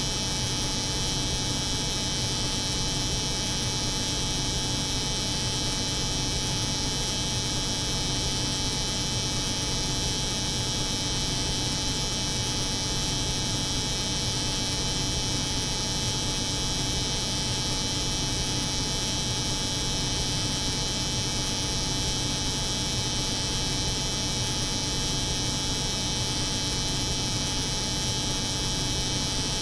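Steady layered drone of an electric hair clipper buzzing over the hum of a cold room, unchanging throughout.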